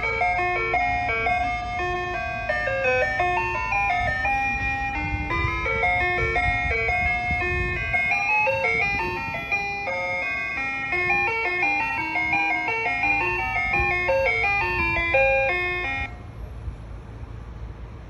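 Soft-serve ice cream truck's chime playing a tinkly electronic melody through its loudspeaker, which cuts off suddenly about two seconds before the end. A low rumble runs underneath and carries on after the tune stops.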